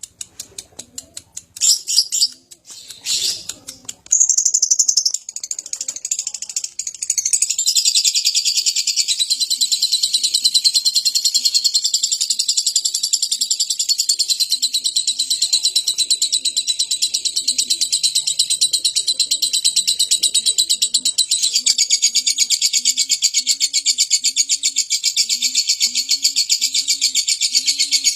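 Lovebird chattering: a few separate sharp chirps, then from about four seconds in one long, unbroken, very fast rattling trill that keeps going without a break, the long 'ngekek' song prized in lovebirds kept for singing.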